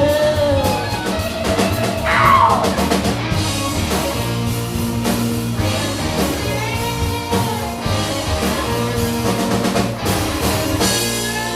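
Live rock band playing an instrumental stretch of a song: drum kit and electric guitar over bass, with a sliding note about two seconds in.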